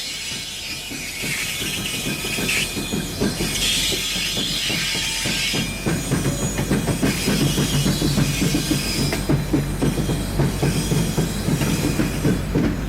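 A train rolling past. In the first few seconds there is high wheel squeal; from about six seconds in, a steady rumble with rapid clicking of wheels over rail joints grows a little louder.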